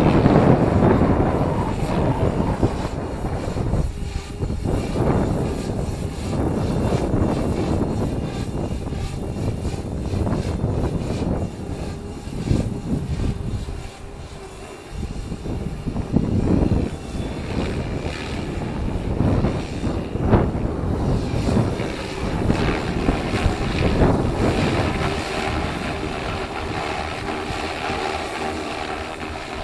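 Electric RC helicopter (stretched MSHeli Protos) with its rotor and motor running in flight, under heavy gusty wind buffeting on the action camera's microphone. The wind swells and fades every second or two, dropping briefly about halfway through.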